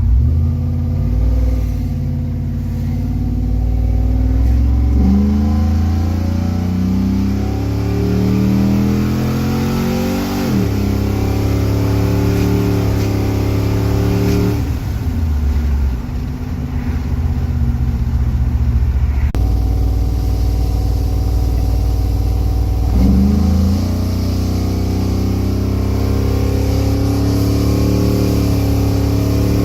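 Chevy Silverado's LS V8 at wide-open throttle, its note climbing in pitch through the revs, dropping suddenly several times as it shifts or lets off, then climbing again.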